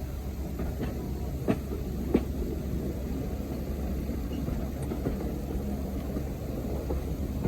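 Heritage diesel locomotive engine running with a steady low rumble, with two sharp knocks about a second and a half in.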